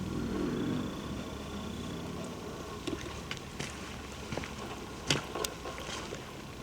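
A passing motor vehicle's low engine hum swells at the start and fades away about two and a half seconds in. Footsteps on the trail follow as scattered light clicks and crunches.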